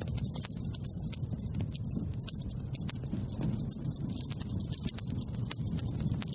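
Campfire burning: wood crackling, with many short sharp pops over a low steady rumble.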